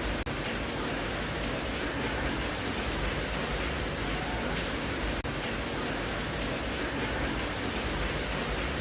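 Steady rain sound, an even hiss with no rhythm or tone, broken by two very short dropouts: one about a quarter of a second in and one about halfway through.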